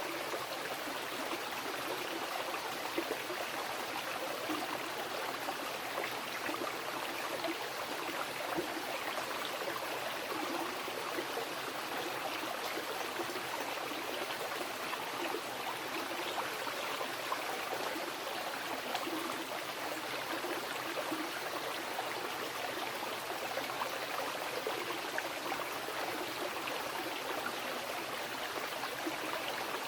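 A fast mountain river rushing and splashing over rocks, a steady, even noise of running water.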